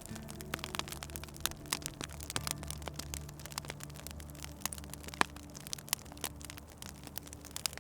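Fireplace wood fire crackling, with many irregular sharp pops and snaps, over low steady held tones that change pitch a few times.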